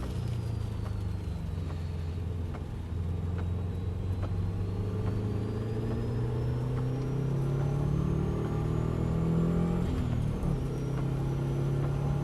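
A car engine pulling on a track lap, its pitch rising slowly for several seconds with a faint high whine rising along with it. About ten seconds in there is a brief dip, then the engine settles at a steady pitch.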